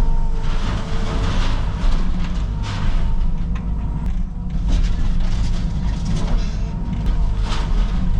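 Caterpillar 306 mini excavator working: a steady diesel engine rumble and a hydraulic whine, with repeated crunching and cracking as a shed is torn apart.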